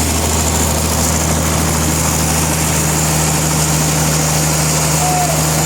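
Sawmill machinery running steadily: an engine-like drone with constant low tones and no change in pitch or level.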